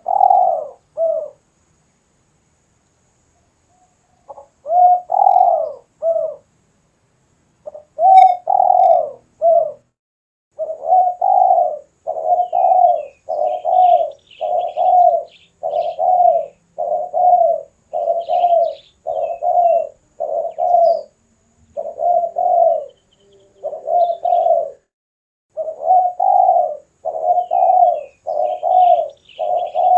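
Spotted dove cooing: a few short phrases, a pause of about three seconds, then a steady run of repeated coos at about one a second. Faint, high chirps of another small bird come in now and then.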